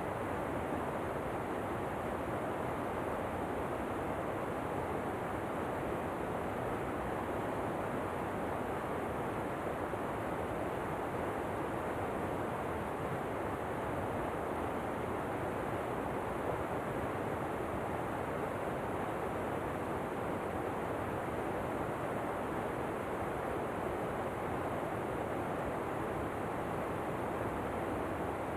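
Steady rushing noise of falling water from a waterfall, even and unchanging throughout, with no separate splashes or other events.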